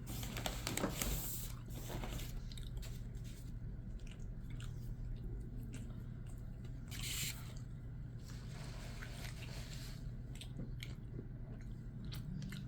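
Close-miked chewing of a ground-beef, cheese and rice burrito: wet, squishy mouth sounds with many small clicks over a steady low hum. There are louder bursts, likely bites, about a second in and again around seven seconds.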